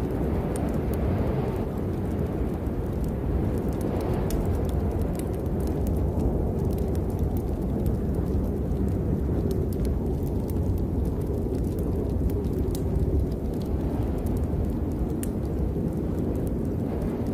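Steady rain with a deep low rumble under it and scattered sharp ticks of drops.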